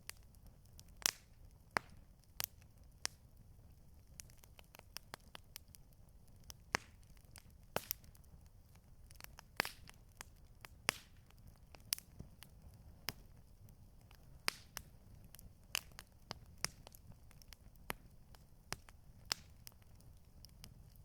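Wood campfire crackling, with sharp irregular pops and snaps a few times a second over a low rumble of the burning fire.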